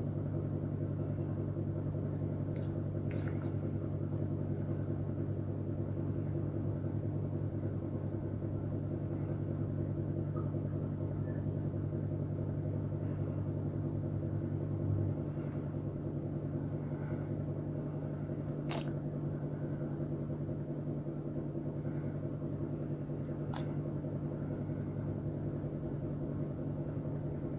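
A steady low machine hum, whose deepest part drops away about halfway through, with a few faint light taps here and there.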